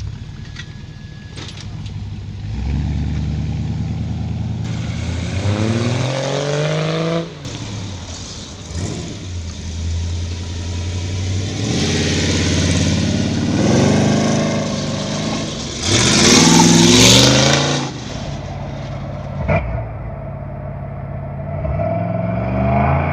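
Car engines revving hard several times as cars pull away, each rev rising in pitch. The loudest and harshest stretch comes about two-thirds of the way in.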